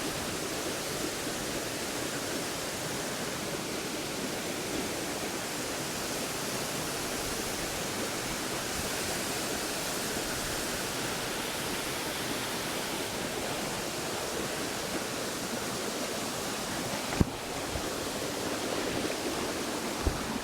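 Waterfall: the steady, loud rush of falling water, even throughout. A sharp knock sounds about seventeen seconds in, and a smaller one near the end.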